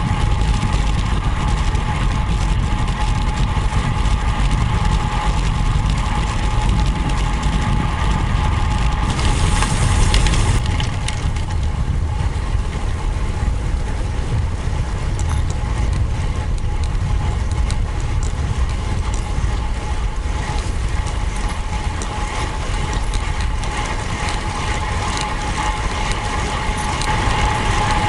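Wind on the microphone and road noise from a road bike on the move: a steady low rush with a steady whine, and faint ticking like a freehub ratchet while coasting. A brief hiss comes in about nine seconds in.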